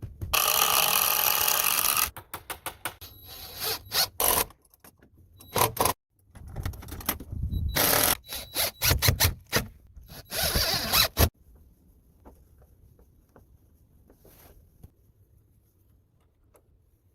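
Power drill driving fasteners into timber of a door frame in several short bursts, with knocks and clicks between them, then going quiet about eleven seconds in.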